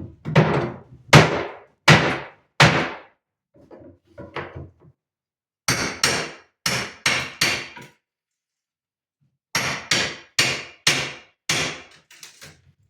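Hammer blows on wood, knocking apart old wooden furniture. The blows come in three bursts of about four or five sharp strikes each, each strike ringing briefly, with a pause of about a second between bursts.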